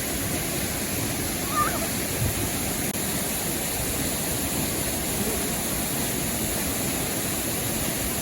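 Steady, even rushing of water from a river waterfall.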